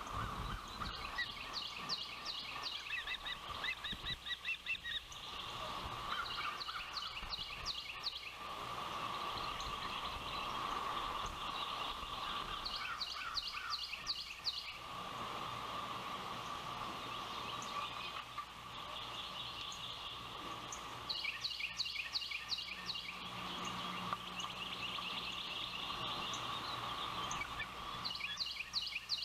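Ospreys calling: bouts of rapid, high chirping whistles lasting a second or two, repeated several times, over a steady high drone.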